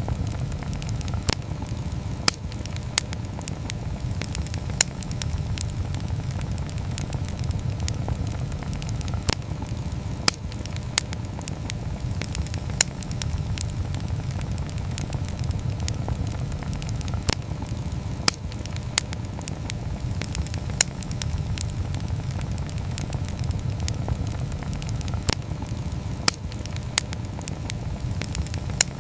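Wood campfire burning: a steady low rumble of the flames with irregular sharp crackles and pops, one every second or so.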